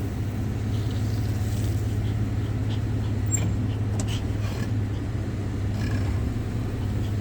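Pickup truck driving, its engine and road noise a steady low drone heard from inside the cab, with a few faint ticks in the middle.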